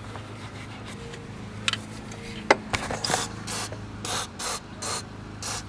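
Aerosol can of carburetor cleaner sprayed in about six short hissing bursts in the second half, after a sharp click, over a steady low hum.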